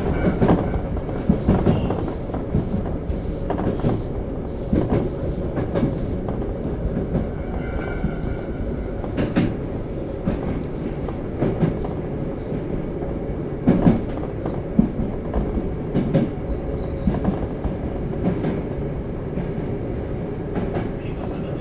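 Toei 5300-series commuter train running at speed, heard from inside the passenger car: a steady rumble of wheels on rail with scattered clacks from the track, the loudest about fourteen seconds in.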